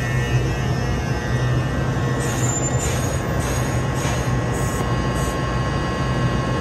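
NJ Transit Arrow III electric multiple-unit railcars rolling slowly past the platform as they pull in, with a steady low electrical hum and rumble. Several brief high-pitched squeals come from the wheels or brakes about two to five seconds in.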